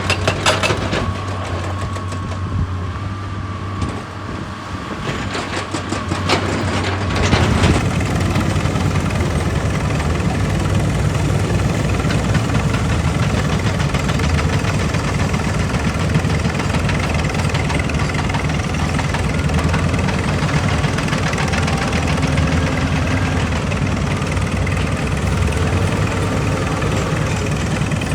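Heavy diesel machinery running at a rock-breaking site, with a few sharp knocks near the start. At about seven seconds in the engine grows louder and denser, as under load, and stays that way.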